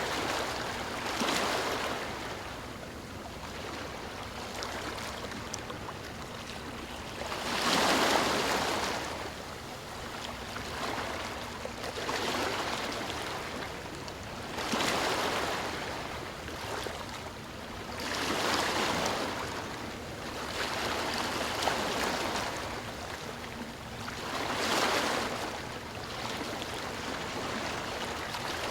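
Ocean waves breaking and washing ashore in repeated surges, one every few seconds, with a steady rush of surf between them.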